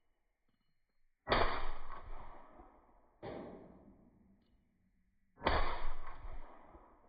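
Suppressed 6.5 Grendel AR rifle with a 12.5-inch barrel firing: two loud shots about four seconds apart, each trailing off over a second or so, with a quieter sharp report between them.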